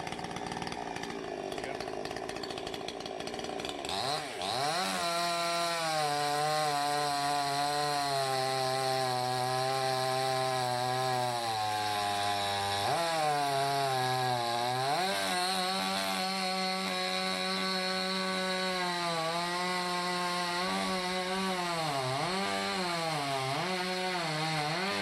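Salem Master two-stroke chainsaw revving to full throttle about four seconds in and cutting through maple wood. Its pitch sags and recovers several times as the chain bites under load.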